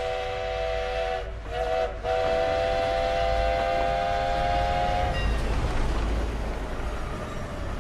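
Train whistle sounding a chord of several notes at once, in two long blasts with a brief break about a second and a half in. The whistle stops about five seconds in, while the heavy low rumble of the running train carries on beneath it.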